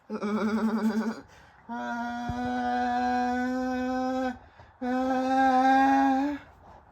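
A voice holding three long notes: the first wavers for about a second, and the next two are steady, the last rising slightly just before it stops.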